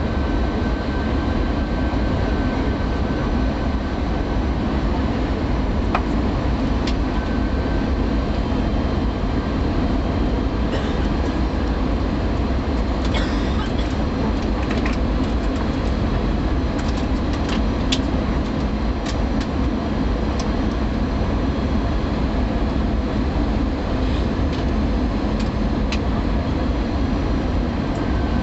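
Steady loud rumble of an airliner heard from inside the passenger cabin, with scattered sharp clicks and rattles from the cabin, most of them in the middle.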